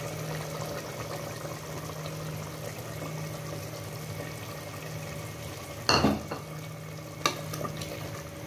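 Mutton and tomato gravy sizzling in a pot as freshly added yogurt is stirred and fried into it with a plastic spatula, over a steady low hum. The spatula knocks against the pot about six seconds in, the loudest sound, and once more about a second later.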